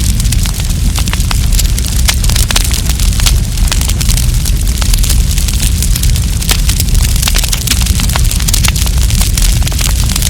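Wood campfire burning and crackling: a constant scatter of sharp pops and snaps over a deep, steady rumble.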